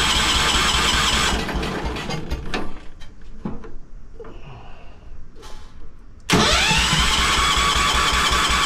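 Electric starter cranking the 1973 Wheel Horse's 10 hp Kohler engine on half choke, each time a whine that rises and levels off. The first cranking stops about a second and a half in, and a second one begins suddenly about six seconds in. The engine does not catch while the fuel is still working its way down.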